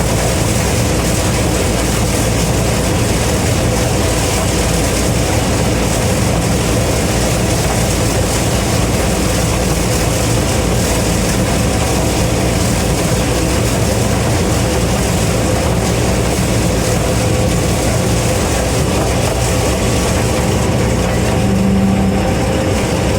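Gleaner M3 combine running steadily under load while picking corn: a constant engine and threshing-machinery drone with a steady whine. A brief low tone sounds near the end.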